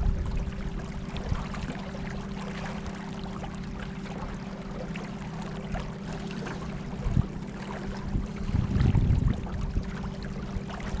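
Boat moving on the river: a steady low hum with one constant tone, over water splashing and rushing, with a louder swell of rumble near the end.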